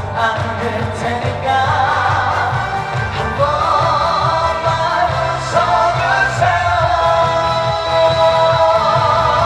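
Trot song performed live: a singer's voice carrying a melody over amplified accompaniment with a steady low bass line.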